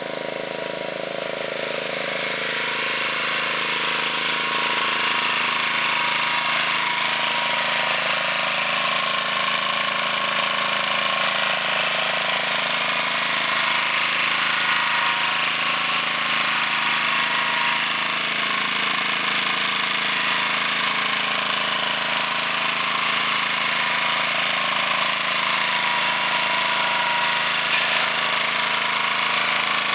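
Walking tractor's engine running steadily under load, driving a rotary power harrow with a seed drill mounted on it. The machine noise builds over the first few seconds, then holds steady.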